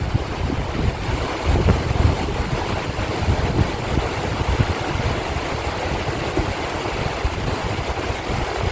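A mountain valley stream rushing steadily, with wind buffeting the microphone in irregular low gusts.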